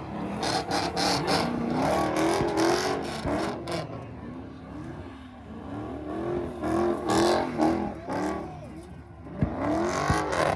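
Car engines revving hard, the pitch rising and falling again and again, with loud noisy bursts in between.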